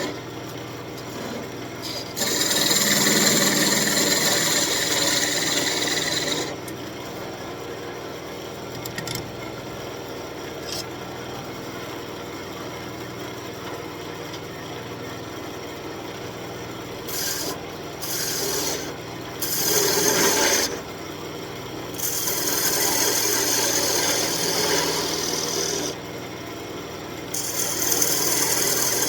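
Turning tool cutting an elm spoon blank spinning on a wood lathe: a hissing, scraping cut in passes a few seconds long, with quieter stretches between them.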